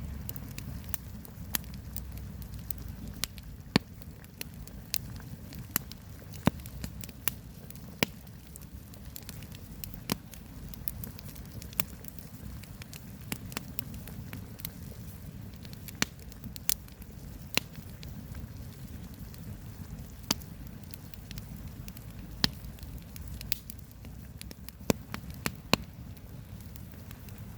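Campfire burning, with irregular sharp crackles and pops of the burning wood over a steady low rumble.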